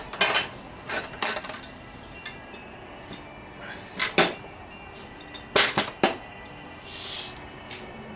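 Metal parts and hand tools clinking and knocking together as they are handled on a workbench, in short clusters of sharp clanks with pauses between.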